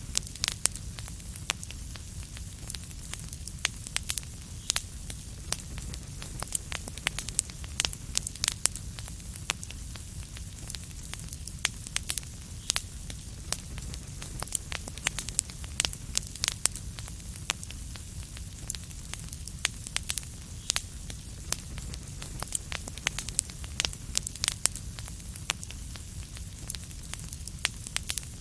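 Wood fire crackling: many sharp, irregular pops and snaps over a steady low rumble and soft hiss.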